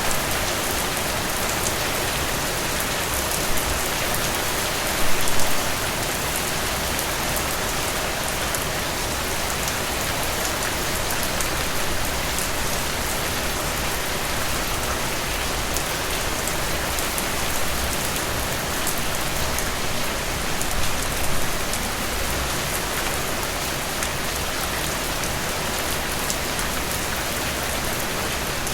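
Steady rain falling, an even hiss of water with many individual drops ticking close by. There are two brief louder swells of patter, about five seconds in and again about two-thirds of the way through.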